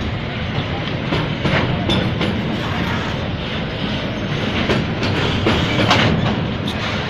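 Freight train of flatcars loaded with steel coils rolling past: a steady rumble of steel wheels on rail, with irregular sharp clacks as the wheels cross rail joints.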